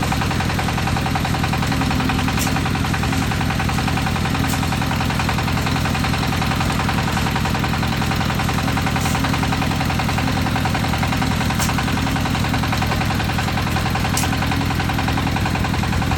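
Concrete mixer's engine running steadily with an even, rapid chugging, and a few faint clicks over it.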